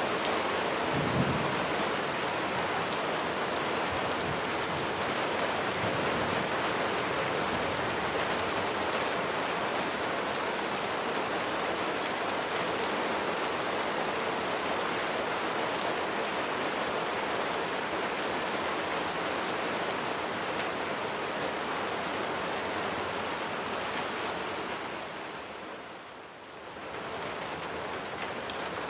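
Steady heavy rain falling, with a short low rumble of thunder about a second in. Near the end the rain briefly fades and comes back.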